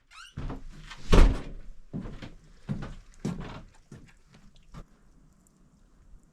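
A shed door being opened: a short rising creak, then a series of thuds and knocks, the loudest about a second in, fading to scattered light knocks.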